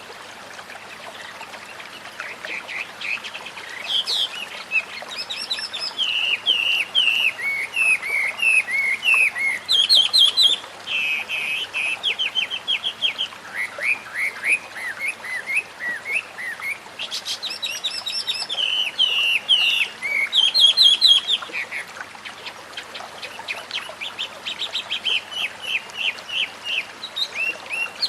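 White-rumped shama (murai batu) singing a long, varied song of quick whistled and chattering phrases, starting a couple of seconds in. Under it runs the steady hiss of flowing water.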